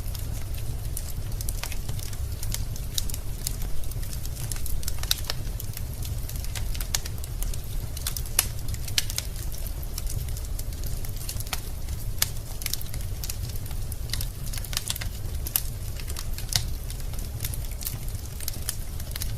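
Wood fire burning in a fireplace: logs crackling with irregular sharp pops and snaps over a steady low rumble.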